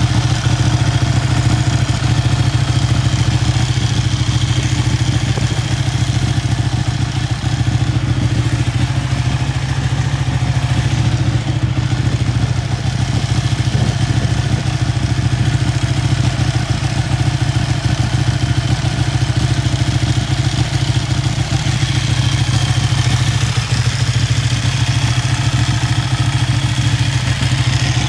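2012 Ducati Superbike's V-twin engine idling steadily, with no revving.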